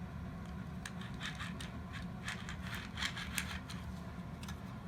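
Plastic toy gearbox parts and wheels clicking and scraping as they are handled and pushed back into place, a flurry of short clicks from about a second in, over a steady low hum.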